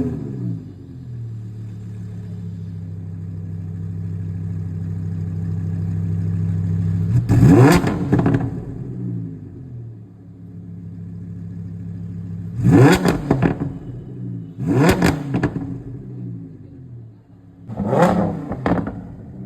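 Lamborghini Huracán's V10 engine idling steadily, blipped four times in sharp revs that rise and fall back to idle, the last a quick double blip.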